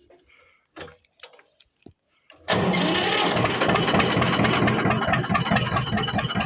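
A few faint clicks and knocks. About two and a half seconds in, an HMT 2511 tractor's diesel engine starts abruptly and runs on with an even pulsing beat.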